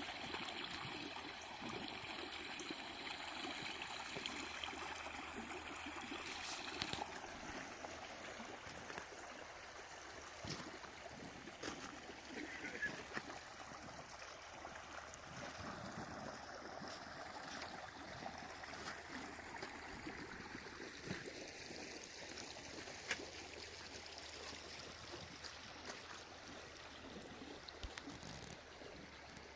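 Snowmelt floodwater running in a stream across a driveway, a faint steady rush with light trickling.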